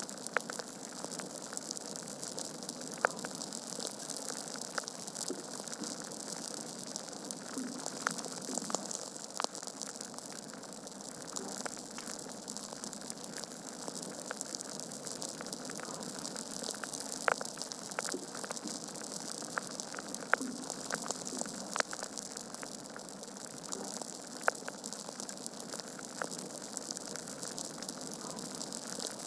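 Log fire burning in a fireplace: a steady hiss with irregular sharp crackles and pops, a few of them louder than the rest.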